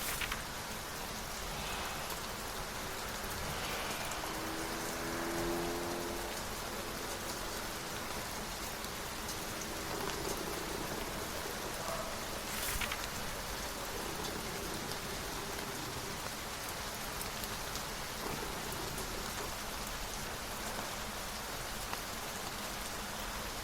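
Steady rain falling, an even hiss throughout. A short low pitched tone sounds about four to six seconds in, and there are a few soft brief clicks.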